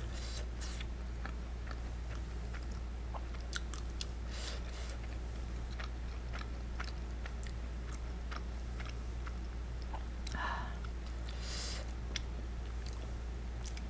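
Close-miked chewing and wet mouth sounds of someone eating creamy shrimp penne pasta, with scattered soft clicks of wooden utensils. A steady low hum from a running air conditioner lies underneath.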